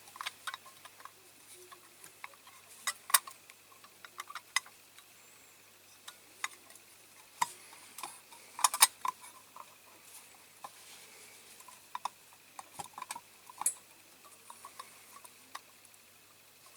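Scattered light clicks and taps of small diecast toy parts being handled and fitted together by hand, at irregular intervals. A few sharper clicks stand out.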